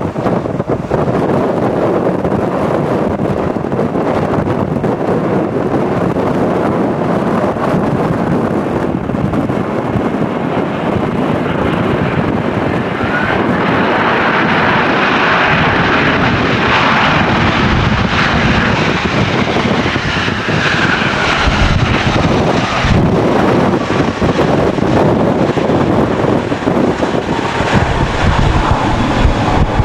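An airliner passing close by, its engine sound building about 13 seconds in, with a whine that falls in pitch as it goes past. Strong wind buffets the microphone throughout.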